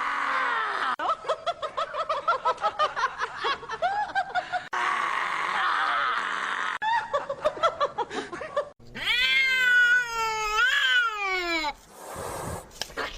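Animal-like cries across several short clips: quick runs of short rising-and-falling calls, then a long, wavering wail lasting about three seconds.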